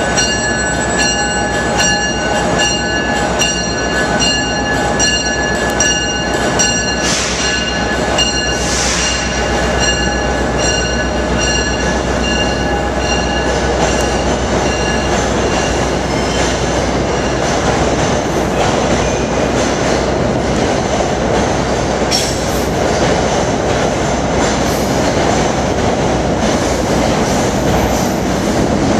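NJ Transit commuter train of Comet coaches pulling out and rolling past, its wheels running on the rails with some squeal. Over the first half a bell rings about twice a second and then stops, leaving the steady rolling noise of the cars going by.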